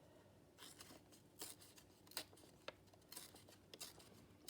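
Faint, irregular short scratches and snips of paper being cut and torn by hand around a printed title, about a dozen separate strokes.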